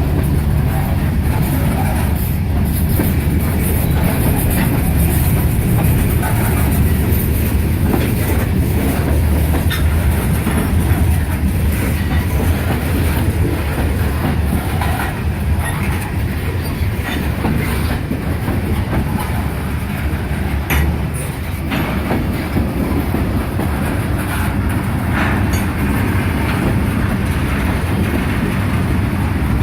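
Freight cars of a slow CSX manifest train rolling past: a steady rumble with the wheels clicking over the rail joints.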